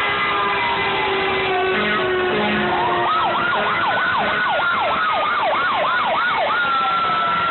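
Fire truck sirens. A slow wail slides down at first, then from about three seconds a fast yelp of rising and falling sweeps, about three a second, which switches to a steadier high wail near the end.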